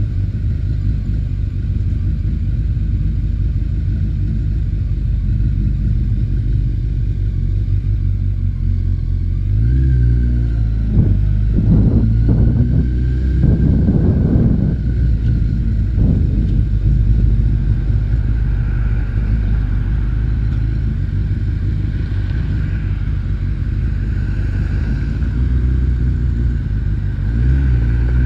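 Honda CBR900RR Fireblade's inline-four engine running at low road speed over a steady low rumble, rising in pitch several times between about 10 and 16 seconds in as the bike accelerates.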